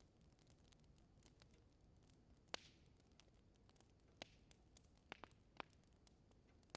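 Wood fire in a fireplace crackling quietly: scattered sharp pops over a faint hiss, the loudest about two and a half seconds in, and a quick cluster of smaller ones later on.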